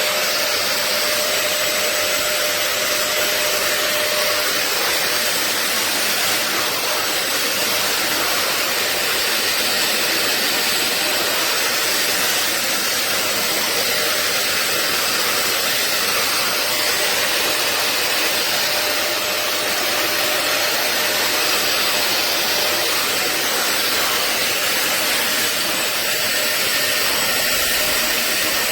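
Rivenara 450 W wet upholstery vacuum cleaner running steadily: an even rushing of air from its suction motor with a faint steady whine.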